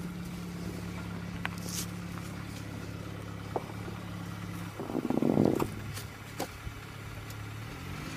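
Car engine idling steadily, with a brief louder rush of noise about five seconds in and the engine's pitch rising near the end.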